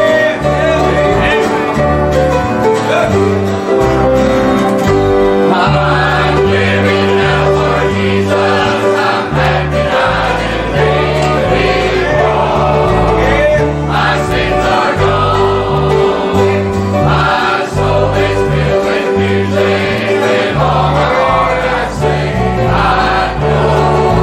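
Choir singing a gospel song with instrumental accompaniment and a steady bass line.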